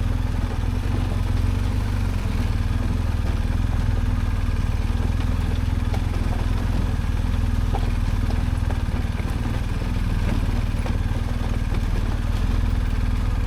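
BMW R1250 GS Adventure's boxer-twin engine running steadily, a low even drone with no revving, with a few faint ticks over it.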